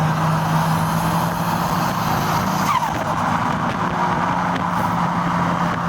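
A car on the move: a steady engine drone with constant road and wind noise.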